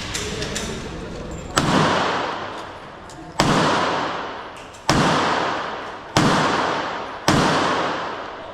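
Five handgun shots fired one after another at uneven intervals of a second or so, each a sharp crack followed by a long echoing decay in the range's enclosed space.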